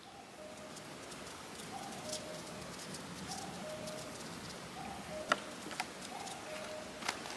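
A bird in the forest repeating a two-note call, a short higher note followed by a longer lower one, about five times at an even pace. A few sharp clicks come near the end.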